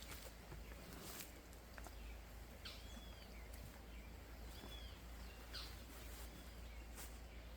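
Faint forest ambience picked up by a trail camera: a steady low hiss with a few scattered soft ticks or rustles, and two short arching bird chirps about three and five seconds in.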